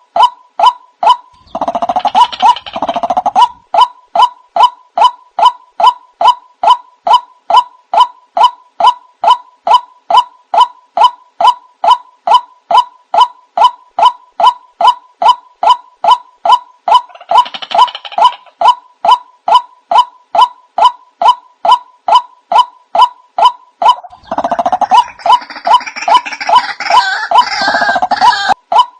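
White-breasted waterhen lure call: a short note repeated monotonously about three times a second, with louder, harsher calls breaking in over it three times, the longest near the end.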